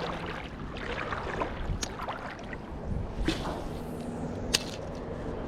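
Footsteps wading through shallow creek water, with a few sharp clicks.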